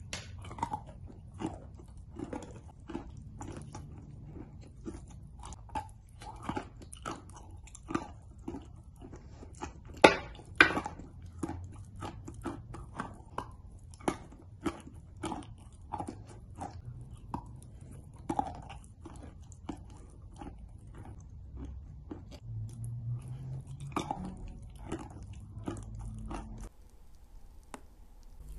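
A person biting and chewing a block of chalk clay, with crisp crunches coming thick and fast throughout. The two loudest crunches come about ten seconds in.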